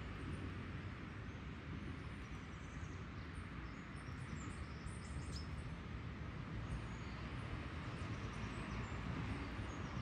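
A few faint, short, high bird chirps, most of them about halfway through, over a steady low outdoor rumble.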